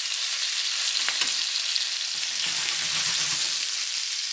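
Cornstarch-dusted chicken wings frying in hot oil over high heat: a steady sizzle with scattered crackling pops.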